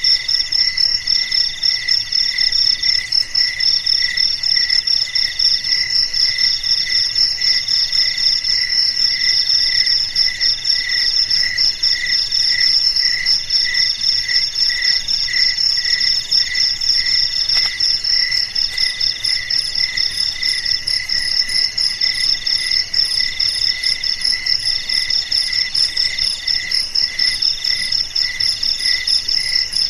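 Chorus of crickets and other insects chirping steadily. Several overlapping trills sound at different pitches: one in even, regular pulses, another in long phrases with brief breaks.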